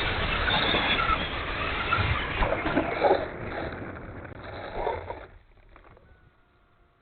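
Electric ducted fan of an E-flite F-16 70mm RC jet running as a steady rush. It eases off and then stops abruptly about five seconds in.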